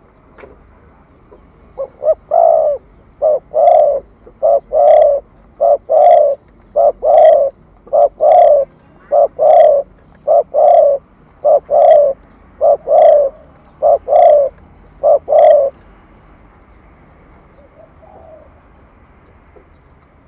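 Spotted dove cooing: about a dozen loud two-note coos, a short note followed by a longer one, repeated roughly once a second, stopping about three-quarters of the way through.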